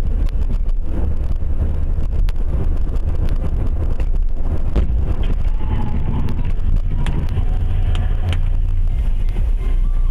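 A car driving: steady low rumble of road and engine noise, with a few light clicks or knocks scattered through it.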